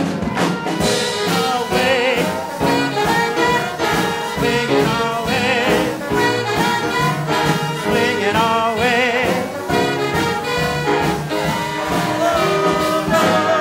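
Live big band swing music: a dance orchestra's brass section, trumpets and trombones, playing over a steady beat.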